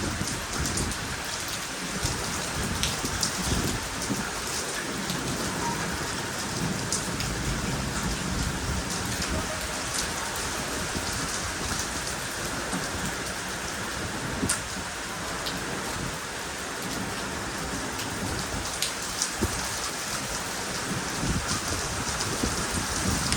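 Heavy storm rain falling steadily, with scattered sharp ticks of impacts on surfaces.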